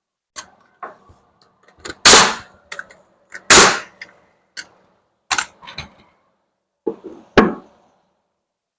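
A series of sharp bangs and knocks, about eight, spaced irregularly, each with a short ringing tail; the two loudest come a little after two seconds and about three and a half seconds in.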